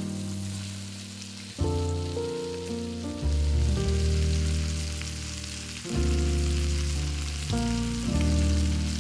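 Chicken breast frying in a pan, a steady sizzle, under background music of slow held low chords that change every couple of seconds.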